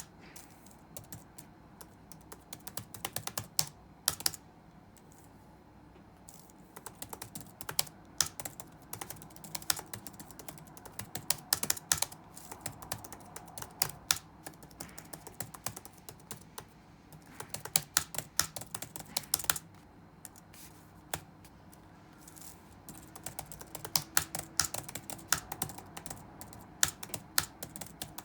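Typing on a computer keyboard: quick runs of key clicks in uneven bursts, with short pauses between them.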